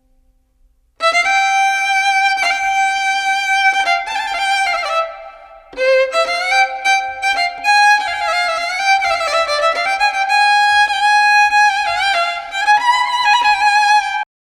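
Solo violin playing a slow, mournful melody as background music. It comes in about a second in, falls away briefly near the middle, and cuts off abruptly just before the end.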